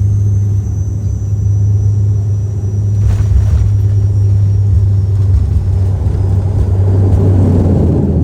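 Cabin drone of a De Havilland Canada Dash 8 turboprop airliner: a steady, loud low propeller hum with a rumble underneath, swelling a little near the end.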